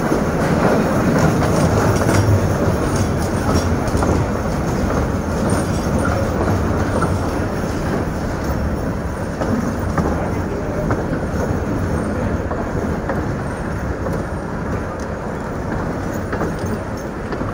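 Narrow-gauge passenger coach running along the line, a steady rumble and rattle of steel wheels on rail with occasional light clicks.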